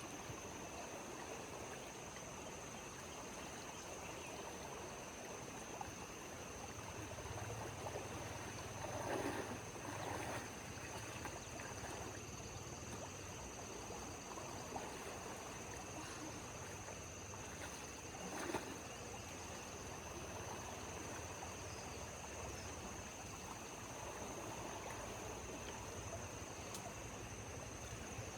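Water flowing and trickling, with a low steady hum coming in about a quarter of the way through and a few brief knocks or splashes.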